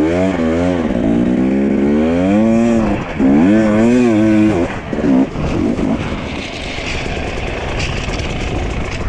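Dirt bike engine revving up and down several times over the first five seconds, then running more steadily under a rushing noise.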